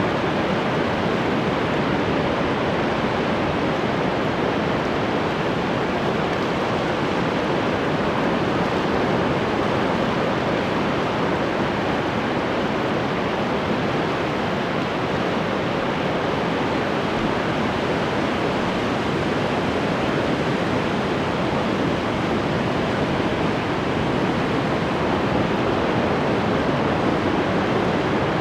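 Ocean surf washing steadily, an even rushing noise with no single wave breaking out above the rest.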